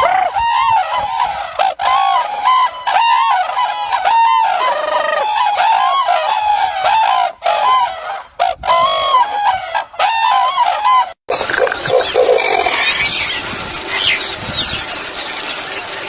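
A bird calling over and over in short, arched notes, about two to three a second. About eleven seconds in, the sound cuts to a different recording with a noisier background and fainter calls.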